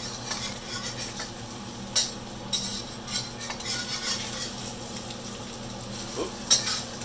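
Beaten eggs frying in oil in a hot wok, sizzling steadily while a utensil scrapes and taps against the pan, with a sharp strike about two seconds in and another near the end.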